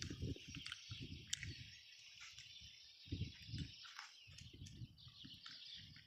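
Outdoor field ambience: a steady chorus of small birds chirping, with many short high chirps, over irregular low thuds and rumbles.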